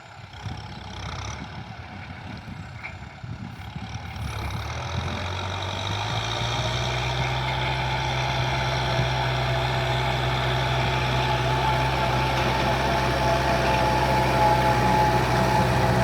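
Diesel tractor engine running. It grows louder over the first few seconds, then holds a steady hum from about six seconds in.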